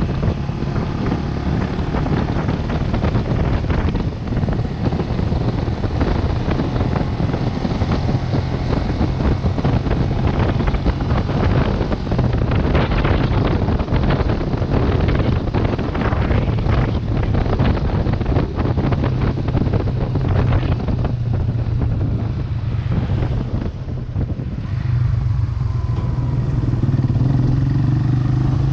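Vento Lucky 7 motorcycle engine running steadily while riding, with wind buffeting the microphone; the engine note rises a little near the end as it speeds up.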